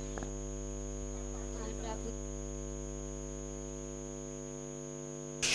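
Steady electrical mains hum with a stack of overtones and a thin high-pitched whine above it. Faint voices come in briefly about two seconds in.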